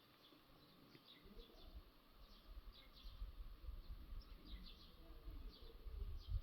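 Small birds chirping faintly, many short falling chirps one after another, over a low rumble that grows louder from about a second in.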